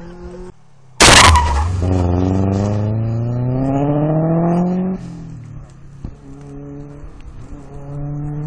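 A car engine under hard acceleration: a sudden loud burst about a second in, then the engine note climbing steadily in pitch for about four seconds before it drops off sharply. After that a quieter, steady engine note, growing louder near the end.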